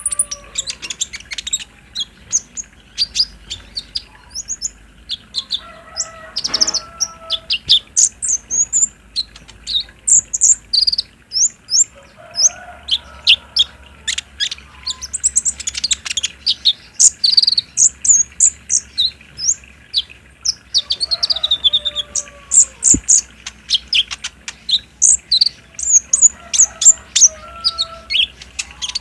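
Kolibri ninja (konin) sunbirds calling in a dense run of rapid, high, thin chirps and trills. Fainter, lower sliding calls come in every few seconds.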